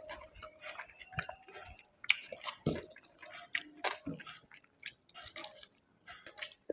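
Close-miked chewing and mouth sounds of a person eating: an irregular run of short wet clicks and smacks.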